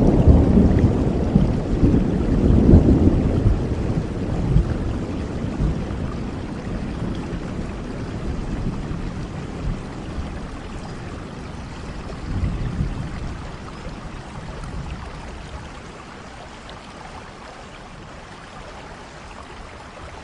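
Steady rain with a roll of thunder, loudest at the start and slowly dying away, with a smaller swell of rumble about twelve seconds in; near the end only the rain's hiss is left.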